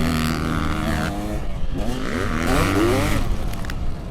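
Dirt bike engine revving hard on a motocross track, its pitch climbing and dropping several times with throttle and gear changes.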